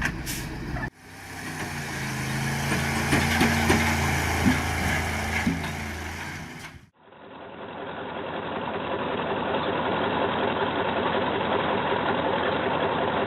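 Heavy truck engine running under load, its pitch shifting as it works, then after a sudden cut a duller, steady engine and driving noise.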